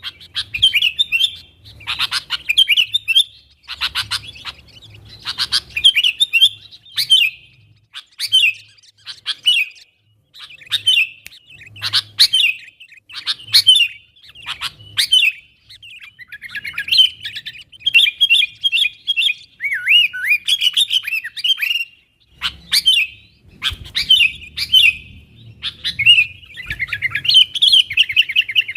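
Sooty-headed bulbul (kutilang) calling and singing in short, quick bursts of chirps and bubbly phrases, one every second or so, ending in a fast run of repeated notes.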